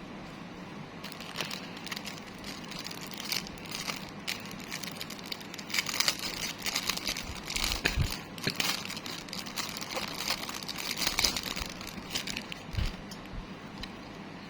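Plastic packaging crinkling and rustling in irregular bursts as it is handled and opened, with a couple of soft low knocks.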